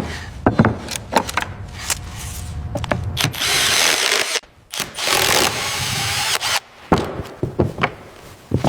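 Work sounds of knocks and clatter, with a power tool running in two stretches of about a second each.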